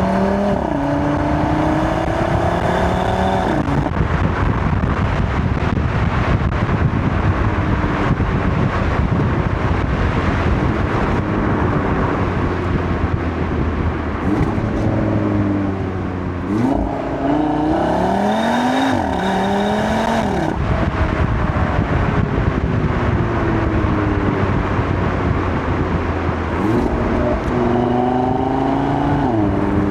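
Audi RS3's turbocharged five-cylinder engine pulling hard through the gears, its pitch climbing and then dropping at each shift, again and again. About halfway through it briefly lifts off before revving up again.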